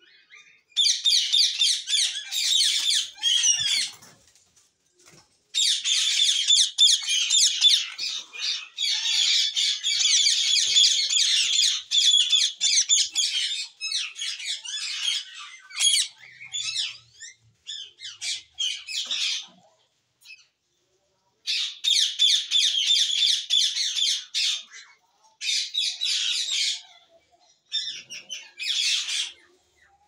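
A flock of cage birds chattering and squawking together in rapid, high-pitched bouts lasting a few seconds each, broken by short pauses.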